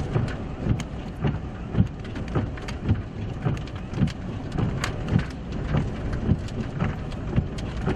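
Rain falling on a stopped vehicle: many irregular drop hits on the roof and windshield over a low steady rumble.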